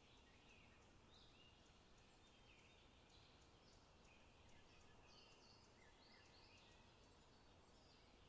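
Faint birdsong in a forest: short chirps and trills repeating every second or so, over a low steady background hiss.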